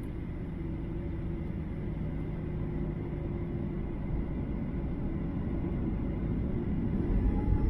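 Steady low rumble of a Boeing 737-800 passenger cabin, the engine and air-conditioning noise heard from a seat. Faint steady hums in it fade out about four seconds in.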